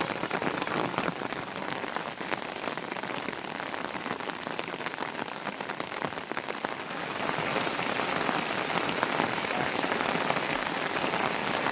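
Heavy rain pattering on a surface, a dense hiss full of individual drop hits, getting louder about seven seconds in.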